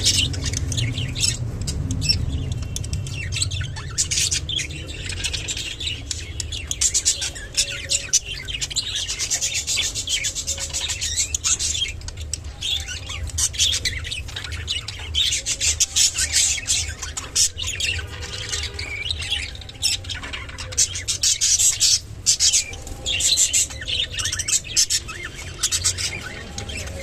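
Budgerigars chattering with a continuous run of short chirps and squawks, over a steady low hum.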